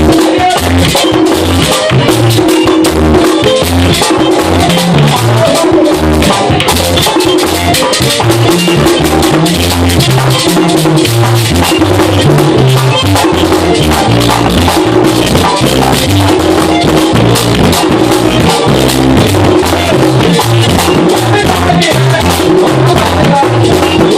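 Merengue típico band playing an instrumental passage: a güira scraping a fast, steady rhythm over tambora drumming and a bouncing electric bass line.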